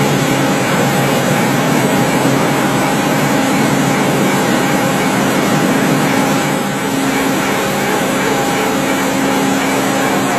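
CNC lathe running: a steady, loud machine noise with a low hum and a faint whine held throughout, easing slightly for a moment about six and a half seconds in.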